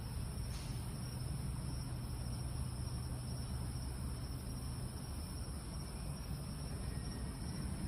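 Steady night-time chorus of crickets, a continuous high-pitched trilling, over a low steady rumble.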